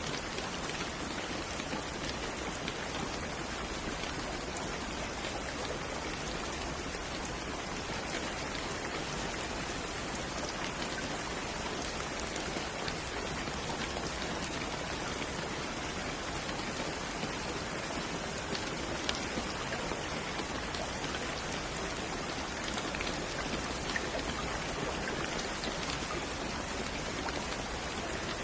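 Steady rain falling on a surface: a dense, even hiss with scattered sharp ticks of single drops.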